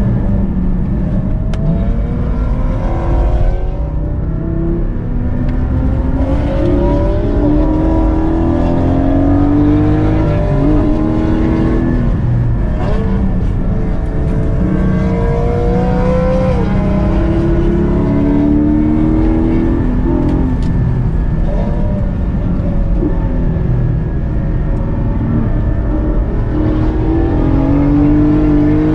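Porsche Cayman GT4's naturally aspirated flat-six heard from inside the cabin under hard driving, its note climbing with the revs and dropping back at each gear change, several times over.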